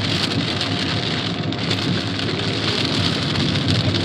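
Rain beating steadily on a car, heard from inside the cabin as a storm breaks.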